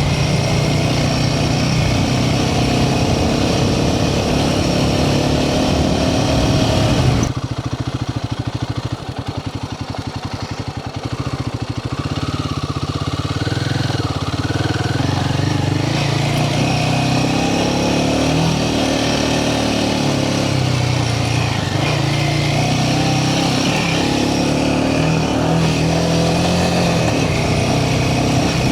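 Royal Enfield Himalayan 450's single-cylinder engine running under way, its pitch rising and falling with the throttle. About seven seconds in the sound suddenly turns duller and quieter for several seconds, then picks up fully again.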